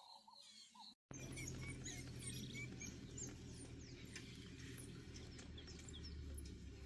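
Bush ambience: many short, high bird chirps over a low, steady hum, which comes in after a brief dropout about a second in. Before the dropout there are faint repeated short calls.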